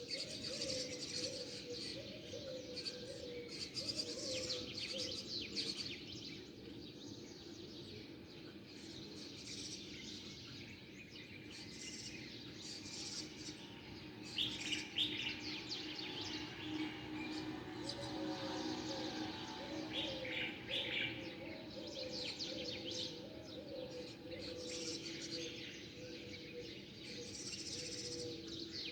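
A flock of small birds chirping and twittering together in a dense, continuous chorus. A lower wavering note repeats underneath for the first few seconds and again in the second half.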